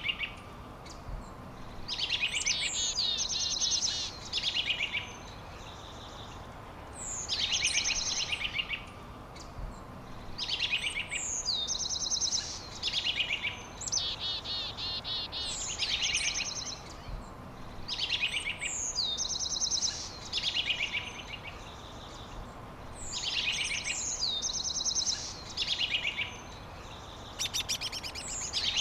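A songbird singing the same trilled phrase over and over, about every four to five seconds. Each phrase opens with a high falling note and runs into rapid trills, over a steady low hiss.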